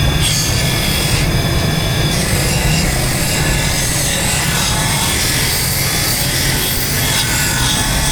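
Power buffing wheel running steadily with its pad rubbing against a motorcycle engine casing while polishing it to a mirror finish: a constant motor hum under a harsh rubbing hiss.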